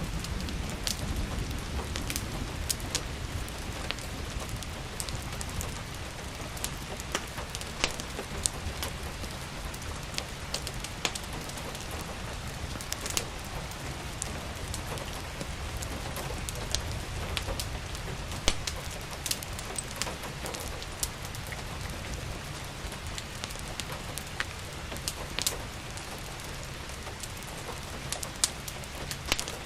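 Steady rain falling, with a low rumble underneath, mixed with the irregular sharp crackles and pops of a wood fire burning in a fireplace.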